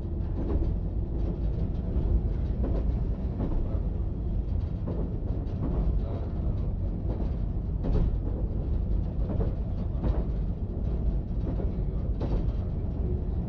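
A diesel multiple unit running at speed along the track, heard from the cab: a steady low rumble with irregular clicks and knocks from the wheels on the rails.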